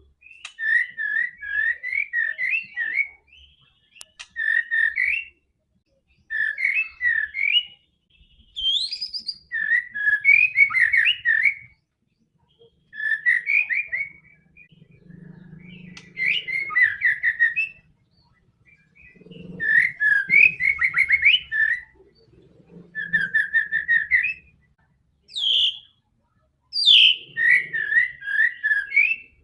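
White-rumped shama (murai batu) singing in repeated phrases of quick, whistled notes, each phrase a second or two long with short pauses between, broken now and then by a higher rising note.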